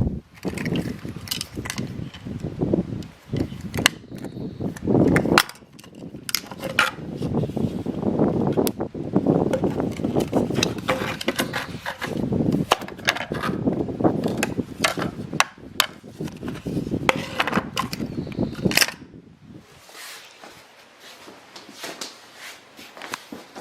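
Irregular knocks and clicks with rustling handling noise, quieter for the last few seconds.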